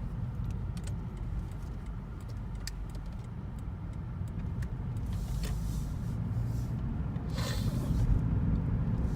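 Car running on the road, heard from inside the cabin: a steady low rumble of engine and tyres that grows slightly louder toward the end, with a few light ticks and two brief swells of hiss.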